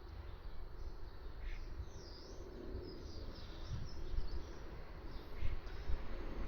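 Small birds chirping in short, rising and falling calls, mostly in the middle, over a steady low rumble.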